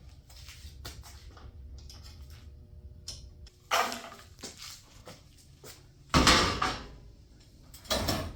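Tools and garage door spring hardware being handled: light clicks and taps, then three loud clattering knocks, the loudest about six seconds in.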